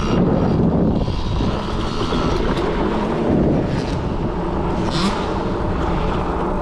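Youth dirt bike engines running as kids ride around a motocross track, the pitch rising and falling with the throttle, with wind buffeting the microphone.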